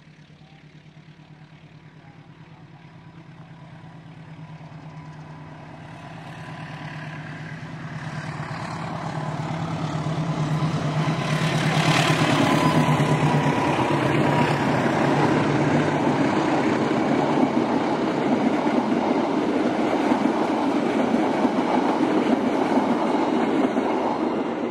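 Diesel locomotive hauling a passenger train on a straight track, approaching with its engine drone growing steadily louder, passing close by at speed about halfway through, then the passenger coaches rolling by with a steady rush of wheel and rail noise.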